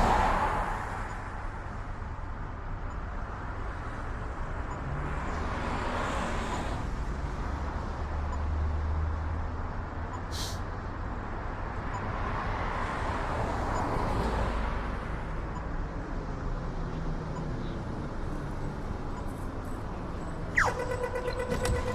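Steady road and traffic noise while travelling along a city road, swelling several times as vehicles pass. Near the end a pitched tone starts with a quick downward slide and then holds steady.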